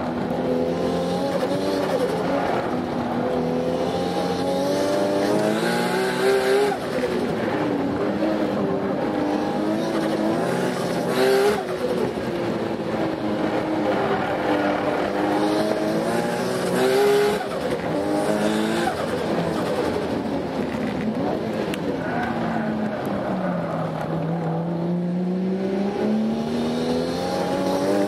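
Turbocharged RB26 straight-six in a Toyota Altezza, heard from inside the cabin, driven hard with the revs climbing and falling again and again through the gears and corners.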